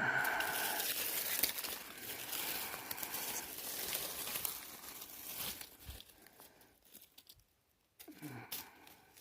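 Forest-floor debris rustling and crackling as it is cleared away, dying down after about six seconds.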